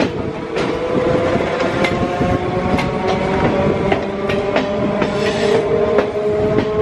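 Electric suburban local train (EMU) running, heard from an open door: the wheels click irregularly over rail joints and points, with a steady motor whine that rises slowly in pitch as the train gathers speed.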